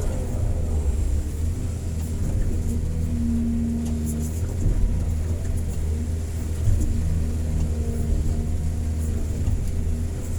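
Excavator's diesel engine running steadily under load, a heavy low hum with higher tones from the engine and hydraulics that swell and fade as the machine works.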